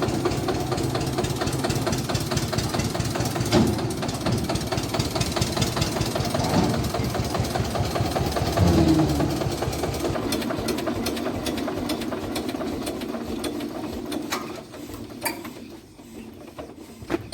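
Eicher tractor's diesel engine running with a fast, even knocking beat. About nine seconds in it briefly changes pitch, and it fades off over the last few seconds.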